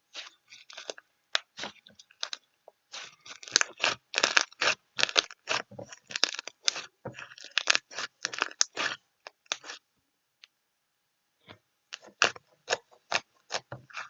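Crisp crunching, as of something being chewed, in quick irregular bursts, with a pause of about two seconds near the end before it resumes.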